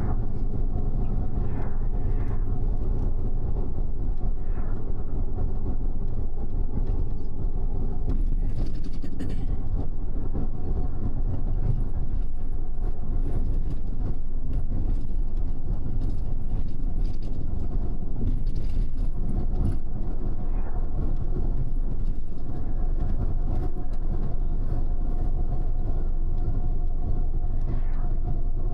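Steady engine and road noise inside a moving double-decker express bus: a low hum with a faint steady tone above it, and a brief hiss about eight seconds in.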